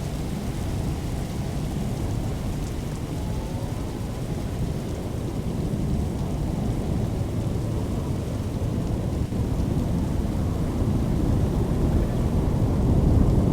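Thunderstorm noise: a steady low rumble with rain, growing louder toward the end.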